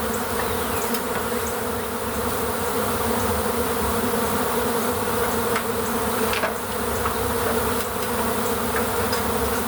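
A large swarm of honey bees buzzing loudly and steadily in the air, stirred up after their cluster has been knocked.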